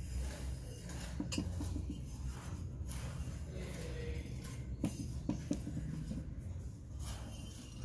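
Light clicks and knocks of small hard objects being handled, a few sharper ones a little past the middle, over a low steady hum.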